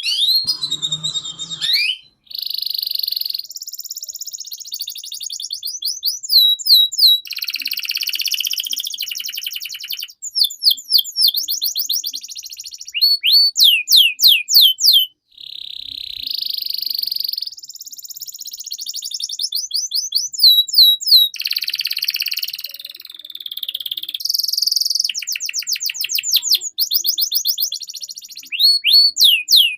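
Domestic canary singing a long, unbroken song. Rapid runs of repeated falling whistled notes alternate with dense, buzzy rolls.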